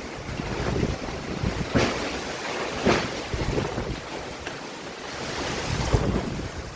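Storm wind gusting hard, rising and falling in surges and buffeting the microphone with a heavy rumble.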